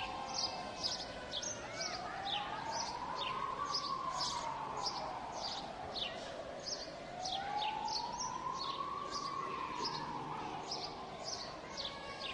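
An emergency vehicle's siren wailing, rising and falling slowly in pitch about every five seconds. Over it, birds chirp in quick, short, high notes, two or three a second.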